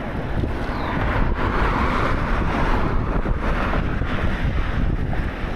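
Wind buffeting the microphone of a camera carried on a moving bicycle: a steady rush of noise with heavy low rumble.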